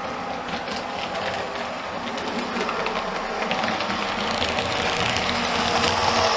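OO gauge model train running along the layout's track, a steady rumble with small clicks from the wheels, slowly getting louder as it comes closer.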